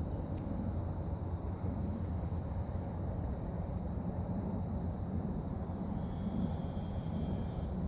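Insects chirping in an even, high-pitched rhythm, like crickets, over a steady low rumble of outdoor background noise.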